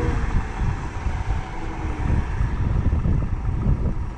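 Wind buffeting the microphone: an uneven low rumble that swells and falls.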